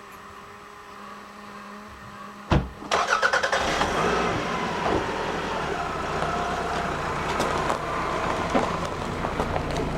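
A faint steady hum, then a sharp knock about two and a half seconds in, after which a car is heard driving on the road, its engine and road noise steady inside the cabin with scattered small rattles and clicks.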